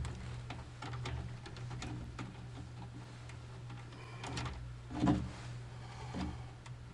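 Steady low machine hum with scattered light clicks and taps of handling, and one louder knock about five seconds in.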